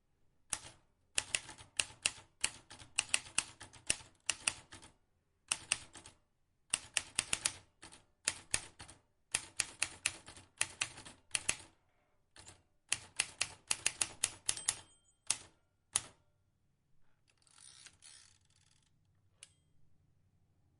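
Vintage manual typewriter being typed on: quick runs of sharp key clacks in bursts, with short pauses between them. Near the end the clacking stops for a brief rough scraping noise, followed by a few lone clicks.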